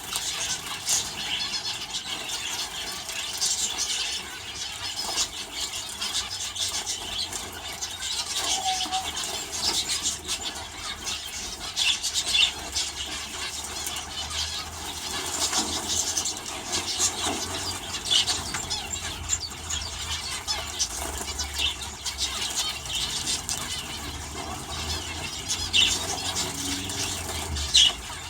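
Aviary finches and canaries chirping continuously in many short, high-pitched calls, with the flutter of wings as they bathe in a water bath.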